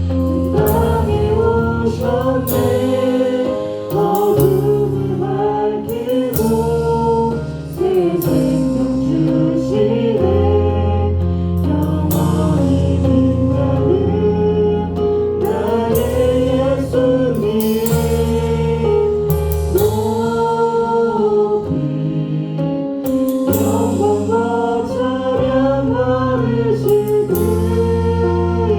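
Contemporary worship band playing, with a group of singers carrying the melody over a full band, and a drum kit close by with frequent cymbal crashes.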